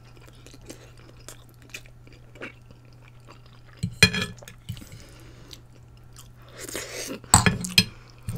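A person chewing food close to the microphone, with soft mouth clicks and two louder bursts of eating noise, about four seconds in and again near the end.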